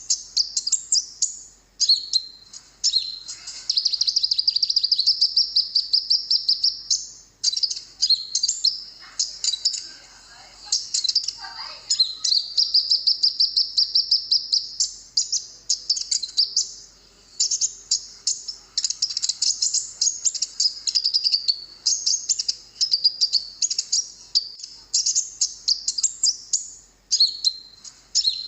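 Olive-backed sunbird song: long, rapid, high-pitched trills and chirping phrases, repeated almost without a break.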